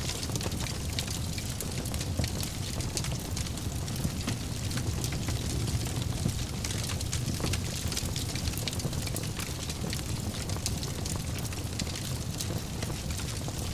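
Fire burning in a fireplace: a steady low rumble of flames with frequent small, sharp crackles and pops.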